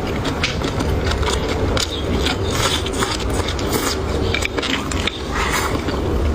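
Close-miked chewing and biting of food: a dense run of small wet clicks, smacks and crunches, over a steady low hum.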